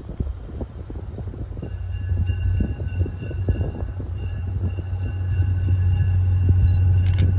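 MBTA diesel push-pull commuter train rolling past close by: a low steady rumble that grows louder, wheels clicking over the rail joints, and a thin high-pitched squeal from about two seconds in.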